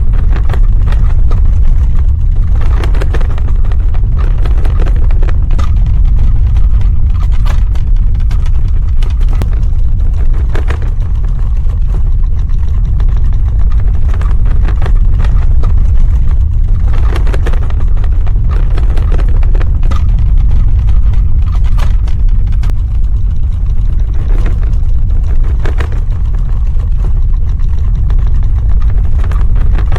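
Earthquake sound effect: a loud, steady deep rumble with scattered crackles and rattles over it.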